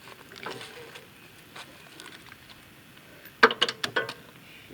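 Several sharp clacks in quick succession about three and a half seconds in: a spark plug dropping out of a socket wrench that lacks its rubber insert and clattering down.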